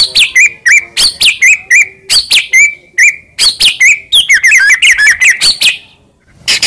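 White-rumped shama (murai batu) singing loudly: sharp whistled phrases with quick pitch glides repeated about twice a second, then a fast run of short rising notes, a brief pause, and more loud notes near the end.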